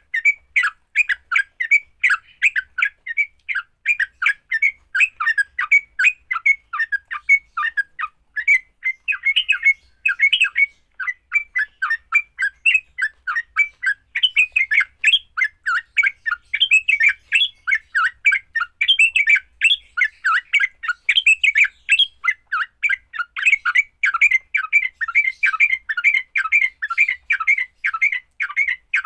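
Yellow-vented bulbuls giving their fighting call: a rapid, unbroken stream of chattering, squawking notes, several a second.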